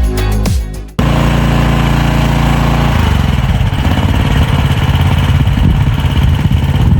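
After a second of dance music, a hard cut to an AGT MX-MRT14 mini skid steer's engine running steadily; about three seconds in its note changes and turns rougher.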